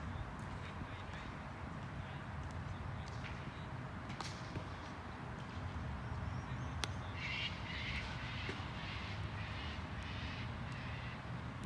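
A bird calling in a run of harsh notes, about two a second, through the second half, over a steady low rumble, with a single sharp click just before the calls begin.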